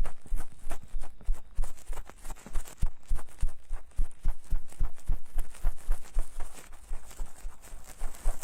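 Ear-cleaning tools scraping and picking inside silicone ears fitted to a binaural microphone: close, crackly scratching with irregular clicks and soft low thumps, several a second.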